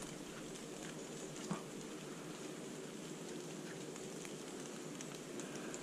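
Light rain falling on forest leaf litter, a steady hiss with scattered small drop ticks and one soft knock about a second and a half in.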